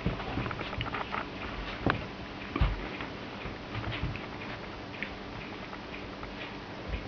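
A dog worrying a stuffed toy kangaroo: scattered soft patters, scuffs and scratchy knocks from its paws and mouth on the toy, with a couple of louder thumps about two seconds in.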